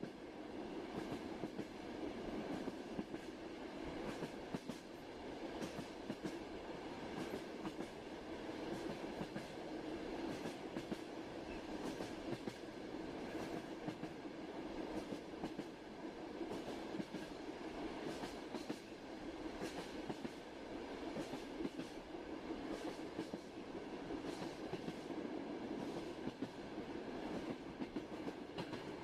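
Passenger train running at steady speed, heard from inside a carriage: a constant rumble with repeated clacks of the wheels over the rail joints.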